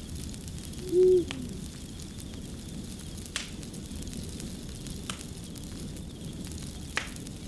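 Fire crackling, with sharp pops every second or two over a steady low rumble. About a second in comes one short, low hoot-like tone, the loudest sound.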